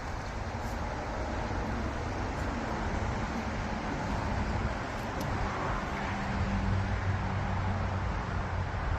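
Highway traffic: steady tyre and road noise, with a vehicle's low engine hum coming up in the second half.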